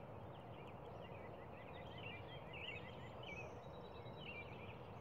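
Several birds chirping faintly over a steady low background of outdoor noise; in the middle one bird gives a quick run of short, evenly spaced notes, about five a second.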